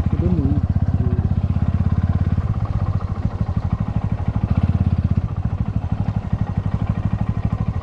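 Motorcycle engine running steadily while riding along, a fast, even pulse of exhaust beats.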